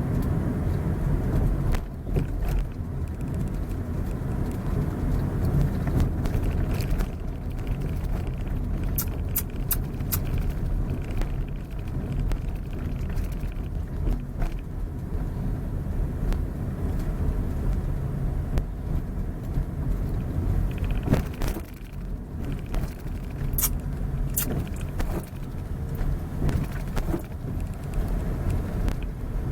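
A vehicle on the move, a steady low rumble of engine and road noise, with a few brief high clicks about nine and again about twenty-three seconds in.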